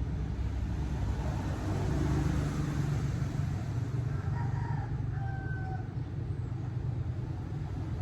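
Motorcycle engine running on the road: a steady low rumble that swells slightly about two seconds in, with a few brief higher tones in the middle.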